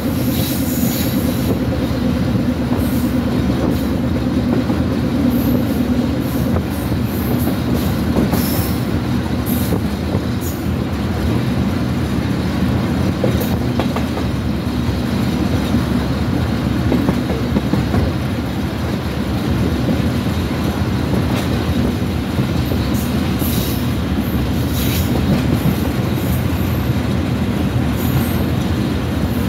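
Pakistan Railways diesel locomotive hauling a train at speed: a steady engine drone over wheel-and-rail rumble, with scattered short high squeaks and clicks from the wheels.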